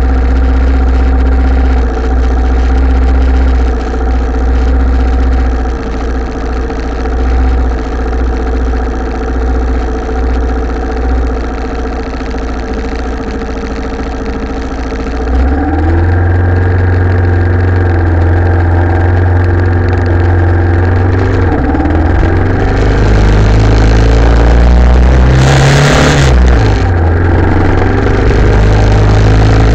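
Italika TC250 motorcycle's single-cylinder engine idling at a standstill, then revving and pulling away about halfway through, its pitch climbing and dropping through the gear changes. A brief loud rushing noise comes a few seconds before the end.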